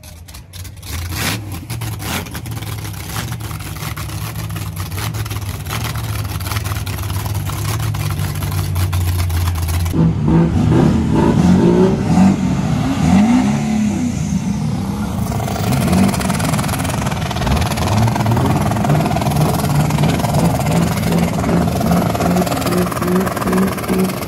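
Diesel truck engine revving, with a low steady drone that grows louder, then, from about ten seconds in, harder revving whose pitch rises and falls in repeated pulses.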